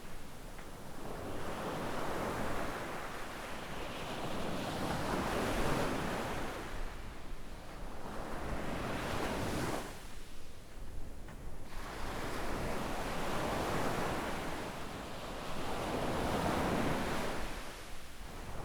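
Small waves breaking and washing up a sandy beach, the rush of surf swelling and fading in slow surges several seconds apart, with a lull about ten seconds in. A low rumble of wind on the microphone runs underneath.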